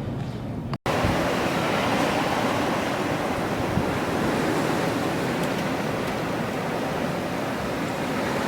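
Strong blizzard wind blowing hard and steadily, buffeting the microphone. A split-second gap of silence comes just under a second in, where the recording cuts.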